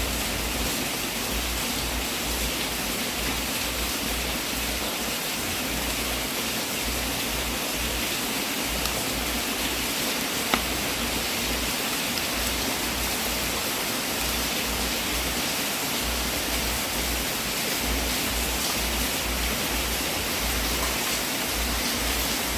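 Wood fire burning in a fireplace: a steady hiss with a few sharp crackles, the loudest about ten seconds in.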